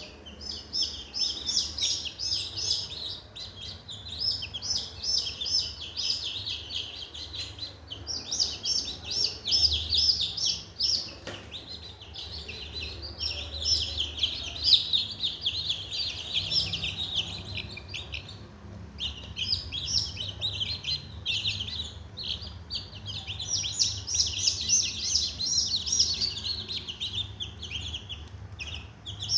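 A brood of newly hatched Sonali chicks peeping loudly and continuously, many short high peeps overlapping, over a faint low hum.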